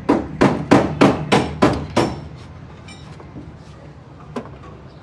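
A hammer striking hard in a steady rhythm of about three blows a second, seven blows in all, which stops about two seconds in. A single sharper knock follows near the end.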